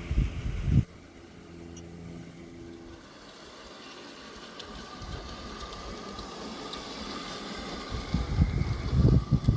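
G-scale garden-railway model trains running on outdoor track, a low rumbling that drops off abruptly about a second in and builds up again near the end.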